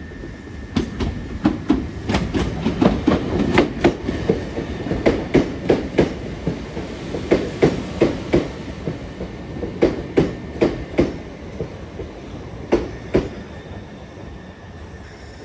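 Train passing along the rails, its wheels clacking over the rail joints in a run of sharp clicks, often in quick pairs, over a low rumble; the clacks die away near the end.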